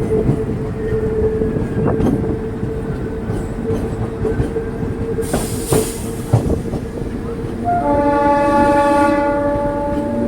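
DEMU passenger train running, heard from on board, with wheels clicking over rail joints and a brief hiss near the middle. About three-quarters of the way in, the train's horn sounds for about two seconds.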